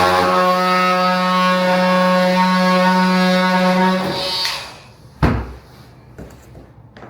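A steady low humming tone with many overtones holds for about four seconds and then stops without falling in pitch, followed by a single sharp thump about five seconds in and a few faint ticks.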